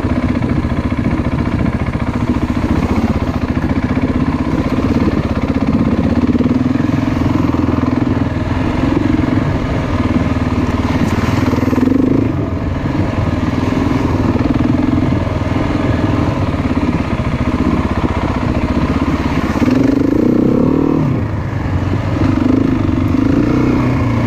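Trail motorcycle engine running at low revs, rising in pitch briefly twice, about halfway through and again near the end.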